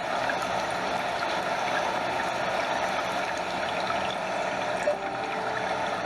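Stream water flowing and splashing steadily over small rocks and a small waterfall, an even rushing wash. A brief faint tone sounds about five seconds in.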